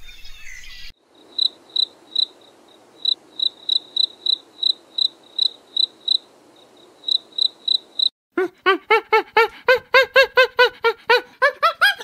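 Crickets chirping in short, high, irregular pulses. About eight seconds in this gives way to a loud run of rapid hooting calls from a chimpanzee, four or five a second and climbing in pitch, like the build-up of a pant-hoot.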